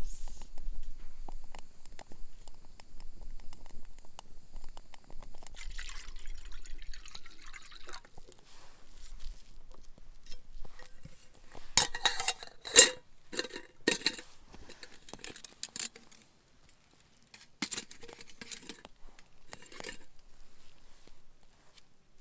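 Cookware and utensils being handled: scattered clinks and knocks, with a quick cluster of sharper knocks about halfway through and a few more near the end.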